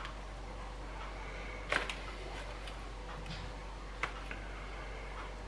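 A few light clicks and taps as salmon pieces are laid from a plastic tub into a frying pan of hot milk on a gas hob, over a steady low hum. The sharpest click comes a little under two seconds in, another about four seconds in.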